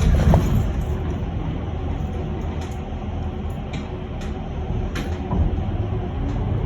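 Electric bus running, heard from inside the cabin: a steady low rumble with a faint steady hum, and a few short clicks and rattles from the cabin fittings.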